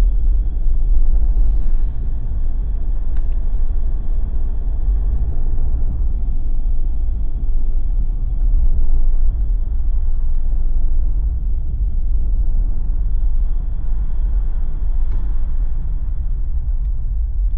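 Steady low road-and-engine rumble of a Jeep driving on a snowy, slushy road.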